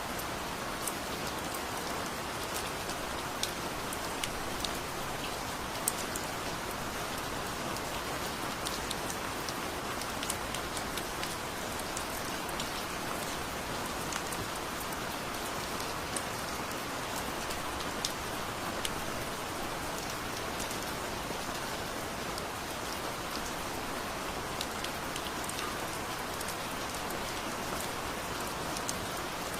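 Heavy rain falling steadily, with frequent sharp ticks of single drops striking close by.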